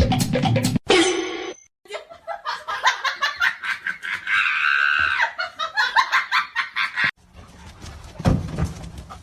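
A person laughing hard in quick, rapidly repeated bursts for several seconds, then fading.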